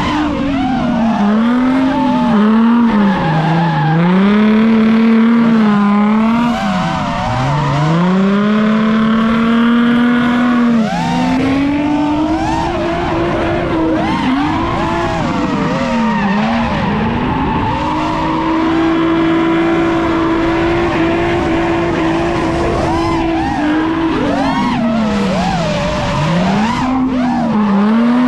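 Nissan 350Z drift car's 3.5-litre V6 engine revving up and down again and again as it drifts, with tyres squealing. The revs are held high and steady for several seconds past the middle.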